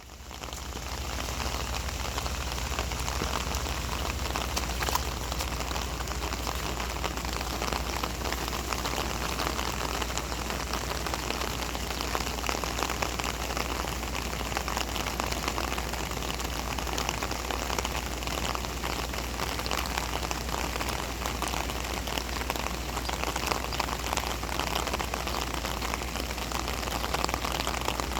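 Heavy rain falling steadily, a dense patter of drops on surfaces, fading in over the first second.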